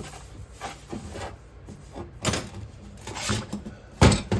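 A tool scraping through packed oil-bonded casting sand (Petrobond) in a series of short strokes, cutting vent lines in a sand mould. A loud knock about four seconds in.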